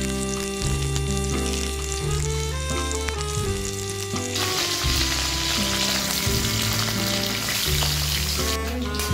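Curry leaves and garlic cloves sizzling in hot oil in a kadai. The sizzle gets much louder about four seconds in and drops back near the end. Background music with a bass line plays throughout.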